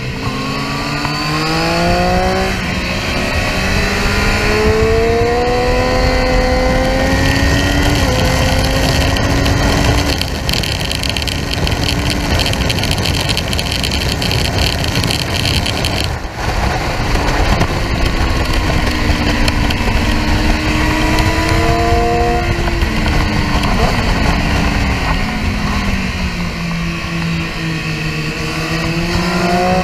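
Triumph Street Triple R's three-cylinder engine pulling hard up through the gears, its pitch climbing in steps, then held high along a straight with a brief dip about sixteen seconds in. Its pitch falls about twenty-three seconds in as the bike slows into a corner, then climbs again near the end, under loud wind rush over the microphone.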